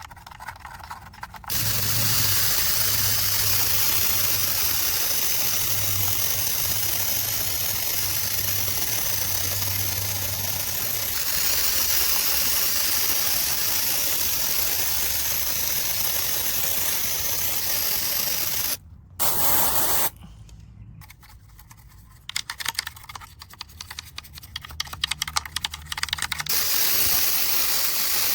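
Steady hiss of a spray jet cleaning a muddy model car, which stops about 19 seconds in. Brief sparse crackling and ticking follow, then the spray starts again near the end.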